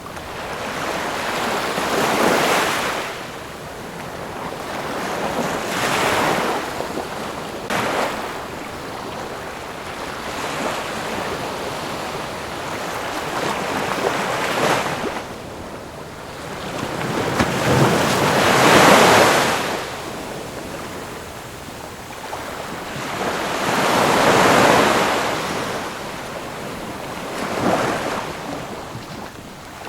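Ocean waves breaking and washing on the shore, a steady surf with swells that rise and fall every few seconds; the biggest wave breaks a little past halfway.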